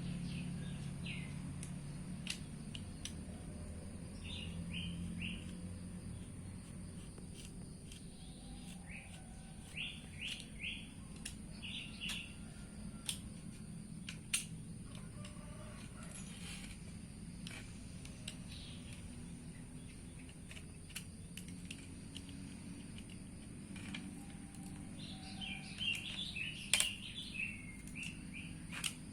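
Small birds chirping in several bursts of quick, short high notes, over a low steady hum, with scattered sharp clicks and taps throughout.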